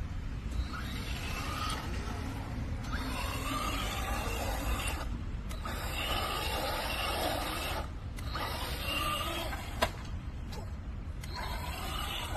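Hyper Go H14BM V3 1/14-scale brushless RC truck being driven: the motor's whine rises and falls with the throttle over a steady rush of tyre and running noise. There are brief let-offs a few times and one sharp click near the end.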